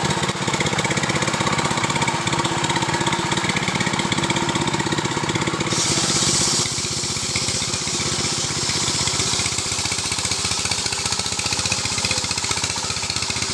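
Two-stroke Stihl chainsaw engine running steadily, with a brief burst of high hiss about six seconds in.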